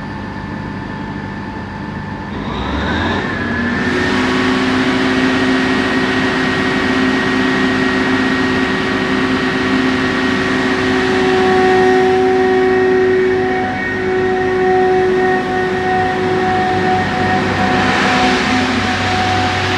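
Network Rail stone blower's diesel engine revving up about two seconds in and pulling away under heavy power. It settles into a loud, steady drone with a high whine on top, working hard enough to clag (throw out thick exhaust smoke).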